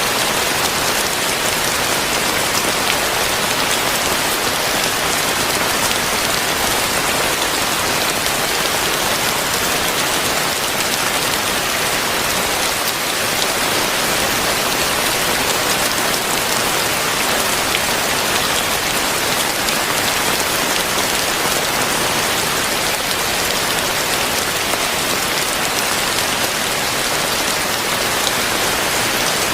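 Heavy rain falling steadily, a dense, even hiss of many drops striking surfaces.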